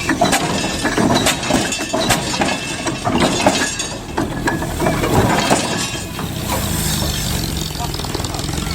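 Steam traction engine working hard under a heavy load on a hill climb: slow, uneven exhaust beats with mechanical clanking from its gearing and motion. About six seconds in it gives way to a steadier, more even running sound.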